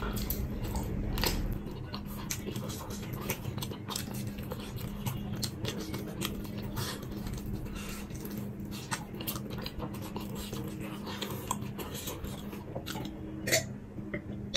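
Close-miked chewing of sauced fried chicken, with frequent wet mouth and teeth clicks over a steady low hum. Near the end there is one louder click as he takes a drink from a glass.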